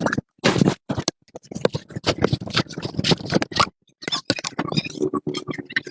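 Hand-tool work on machine parts: a dense run of scraping and clicking in short bursts, cut by several brief silent gaps.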